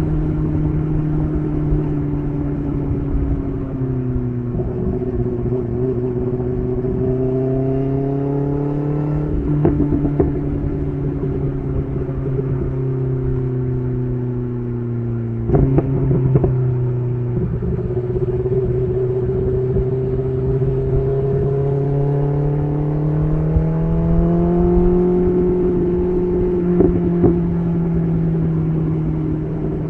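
BMW S1000RR inline-four running through an SC Project titanium exhaust under way, its pitch dropping and rising with throttle and gear changes. Sharp cracks from the exhaust come about a third of the way in and again around the middle.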